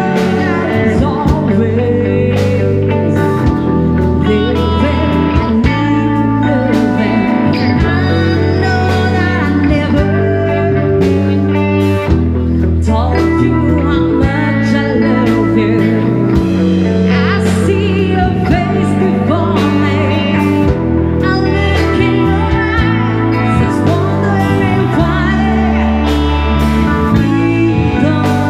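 A live band playing a song: a singer over electric guitar, bass and drums.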